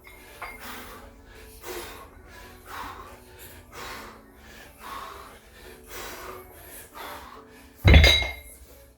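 Heavy, rhythmic breathing: a forceful exhale about once a second during a set of dumbbell power presses. Near the end comes a loud thud with a short metallic clink as the dumbbells are put down on the floor.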